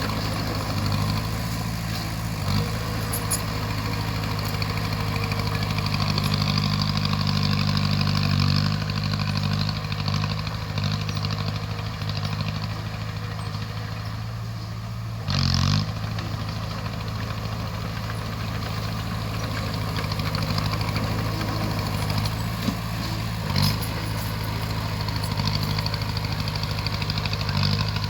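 Bulldozer's diesel engine running steadily, pulling a little harder for a few seconds early on. About halfway through there is a short, loud burst of noise, and there are a couple of brief knocks.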